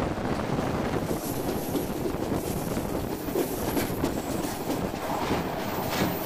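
Moving train running along the rails: a steady rumble of wheels on track with scattered clicks and some faint high squeal.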